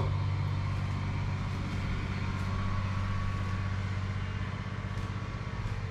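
Steady low mechanical hum with several fixed tones, from machinery running aboard a houseboat.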